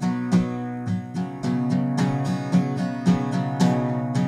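Music with no singing: an acoustic guitar playing a steady picked and strummed pattern, a few strokes a second.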